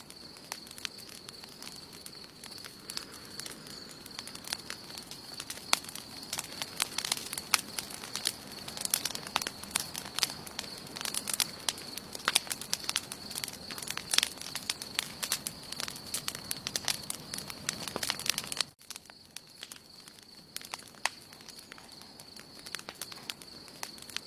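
Wood campfire burning, with dense irregular crackling and popping that suddenly thins to sparser pops about three quarters of the way through. A faint steady high-pitched tone runs underneath throughout.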